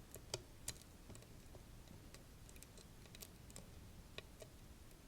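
Faint, irregular small clicks and taps from hand work on stained glass pieces being wrapped in copper foil tape.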